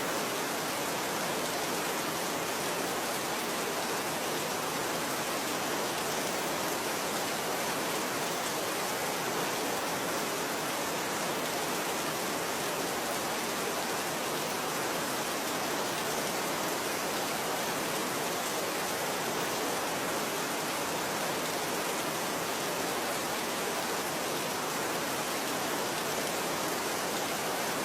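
Steady, even rain falling, a constant hiss of many drops with no distinct individual hits or changes.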